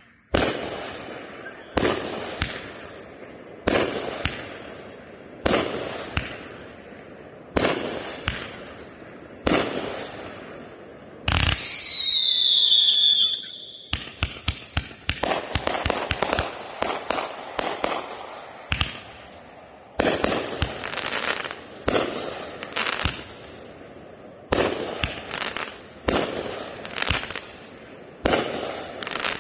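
A 500-gram consumer fireworks cake firing: single shots about every two seconds, each a launch thump and a bursting break with crackle. About eleven seconds in, a volley of whistling tails screams and falls in pitch for two or three seconds, the loudest moment. After that the shots come faster, with crackling breaks.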